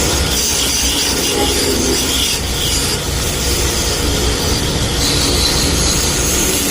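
Wood lathe running with a tool scraping against the spinning wood of a rolling-pin blank, over a steady motor hum.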